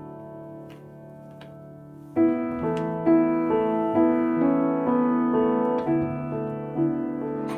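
Soft piano background music: gentle sustained notes, then louder piano notes coming in about two seconds in and playing a slow, even melody.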